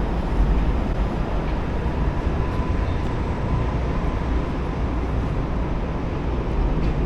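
Steady rumble of road traffic crossing the bridge overhead.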